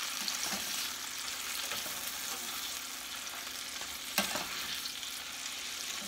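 Chicken pieces sizzling as they fry in a skillet, with the scrape of a fork turning them. A single sharp clink about four seconds in.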